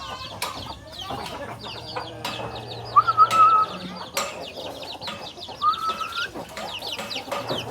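Vietnamese game chickens clucking, with two drawn-out calls, about three seconds in and again near six seconds.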